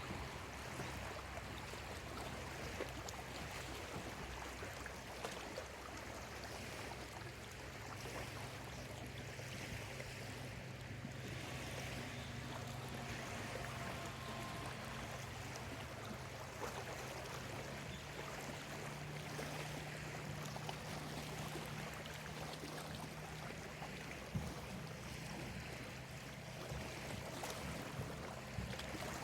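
Small lake waves lapping and washing on the shore in a steady, continuous wash with small irregular splashes. A steady low hum runs underneath.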